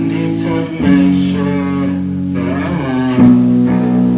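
Live band music led by guitar with bass, held chords ringing out and changing about a second in and again near the end.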